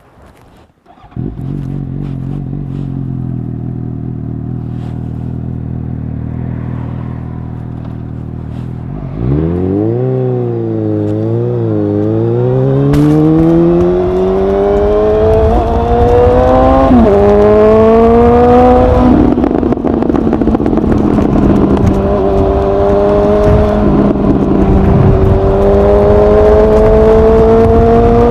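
2019 Suzuki GSX-S750's inline-four, through a Yoshimura SQ11 exhaust with no dB killer and no catalyst, starting about a second in and idling steadily. It is then blipped a few times and pulls away, revs rising through the gears with a couple of short drops at the shifts.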